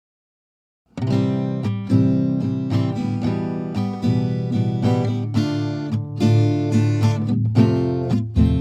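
Background music: strummed acoustic guitar, starting about a second in after a moment of complete silence.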